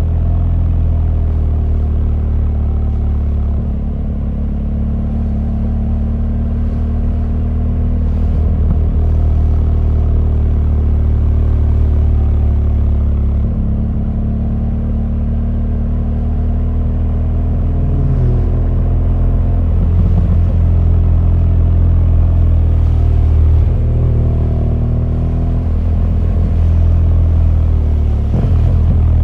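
BMW R1200GS boxer-twin engine running steadily under way, its note shifting a few times as the throttle opens and closes.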